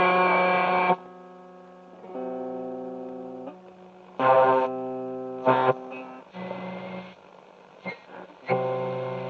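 Guitar music: separate plucked or strummed chords that ring steadily, then cut off abruptly, with short quieter gaps between them.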